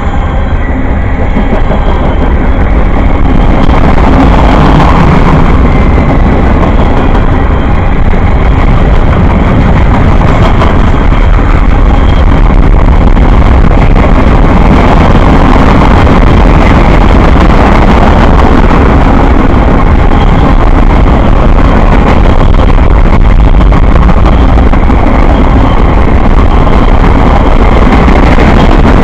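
Train passing close by: a loud, steady rumble of wheels and cars rolling on the track.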